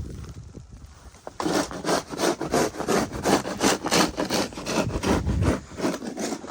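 Rapid rhythmic scraping strokes of snow being cleared, about three or four a second, starting about a second and a half in.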